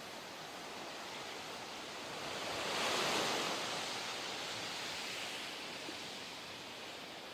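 Ocean surf: a steady wash of sea noise in which one wave swells and breaks about three seconds in, then slowly fades back.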